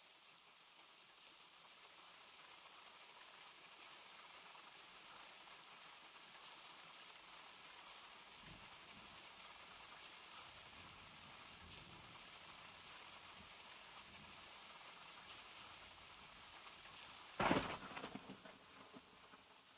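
Steady rain falling, with faint low rumbles from about eight seconds in. Near the end comes a sudden loud crack of thunder that dies away over a second or two.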